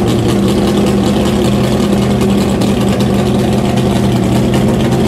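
The 426 Hemi V8 of a 1965 Plymouth Belvedere I A990 factory drag car idling steadily and loudly.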